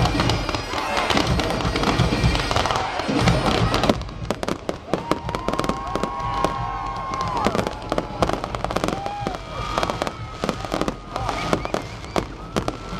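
Fireworks bursting and crackling in quick succession, with bagpipe music playing behind them. The first few seconds are a dense wash of bursts; after that come many sharp crackles, with a few whistling tones in the middle.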